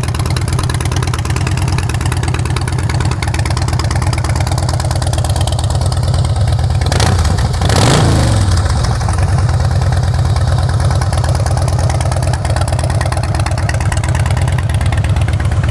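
A 2009 Harley-Davidson Softail Rocker's 96-cubic-inch V-twin idling through Vance & Hines exhausts. About seven seconds in, one throttle blip makes the engine rise in pitch, then drop back to idle.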